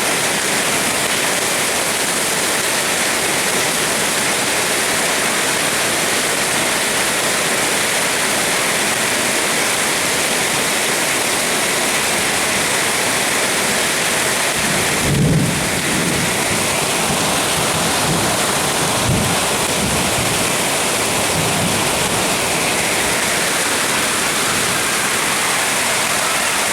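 Heavy rain pouring down steadily, with two low rumbles of thunder, one about halfway through and another a few seconds later.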